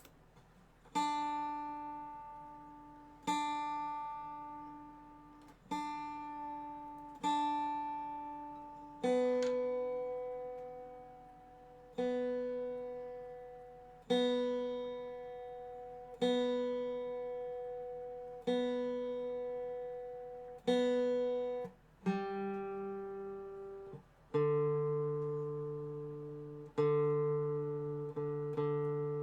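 Dobro resonator guitar played slowly: plucked notes and chords struck about every two seconds, each left to ring and fade before the next.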